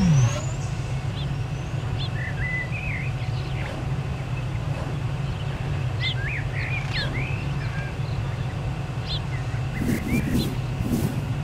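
Forest ambience: birds chirping, with scattered short chirps and curving whistled calls several times, over a steady low rumble. A falling swoop closes off the preceding music at the very start.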